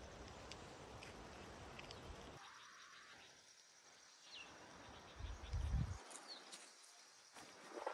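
Faint outdoor ambience with a few short, high bird chirps. A steady hiss drops away about two and a half seconds in, and a brief low rumble just past halfway is the loudest sound.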